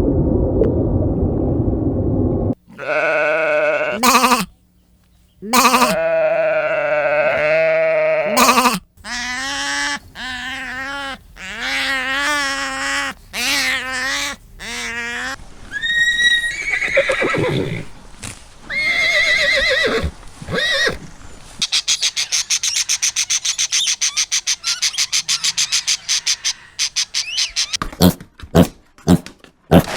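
A run of different farm animal calls one after another: a low rumble at first, then a series of drawn-out calls with wavering pitch, a fast rattling buzz, and short loud pulses near the end.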